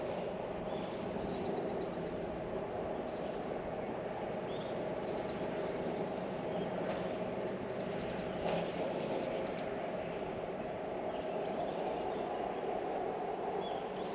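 Outdoor garden ambience: a steady low rumble with short bird chirps every second or two, and a brief clatter about eight and a half seconds in.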